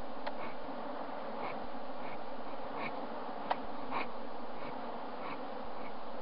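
A swarm of wild honeybees buzzing, a steady dense hum, with a single sharp click about halfway.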